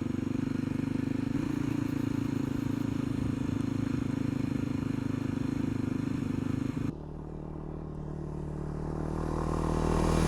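A single-cylinder dual-sport motorcycle engine running steadily while riding. About seven seconds in, the sound cuts abruptly to a quieter scene, where a motorcycle grows steadily louder as it approaches near the end.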